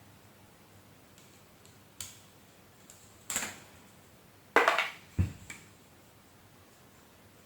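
Scattered sharp clicks and clacks of small hard parts and tools being handled while a vacuum cleaner motor is taken apart to get at its carbon brushes. The loudest is a clatter about four and a half seconds in, followed by a dull knock.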